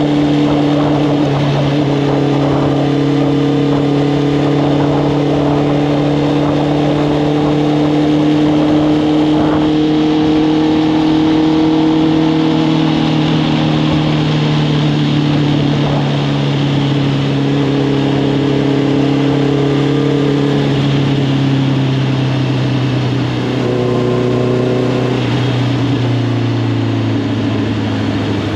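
Honda CB650R's inline-four engine running through an Arrow Thunder full exhaust system while riding, held at a fairly steady engine speed with its pitch drifting gently. The revs ease down about two-thirds of the way through.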